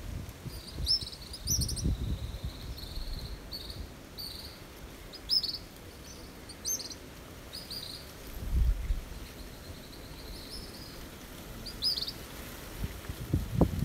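A songbird chick gives short, high begging chirps at irregular intervals: it is hungry and calling for its parent to feed it. A few low rumbles come through underneath.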